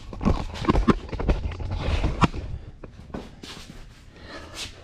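Hands handling and turning the power valve parts on a two-stroke motorcycle engine: a run of sharp metal clicks and knocks, busiest in the first couple of seconds, then lighter scattered handling noise.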